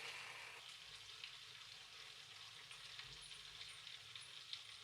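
Masala-coated chicken frying in a kadai, sizzling faintly with a light crackle of hot oil.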